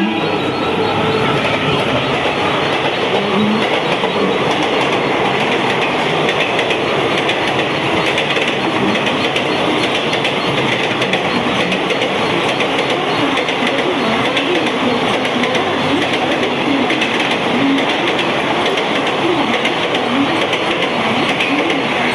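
An Indian express passenger train's coaches passing at speed: a steady loud rush of wheels on rail, with a quick clickety-clack over the rail joints.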